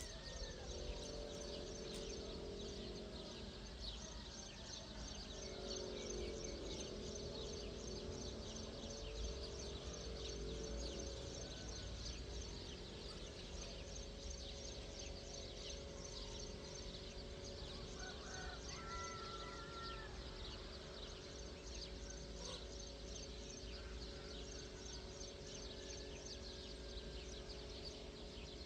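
Outdoor morning ambience: birds chirping densely and rapidly throughout, with a few clearer calls about two-thirds of the way through. Underneath is a low hum that wavers in pitch for the first third, then holds steady.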